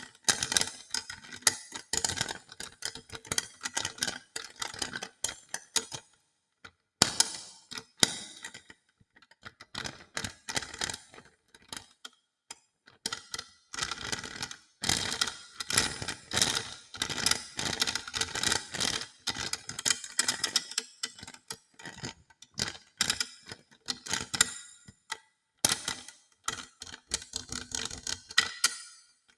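Hodo balls clicking and clacking against each other in quick, dense runs, broken by short pauses, with a faint ringing under the clicks.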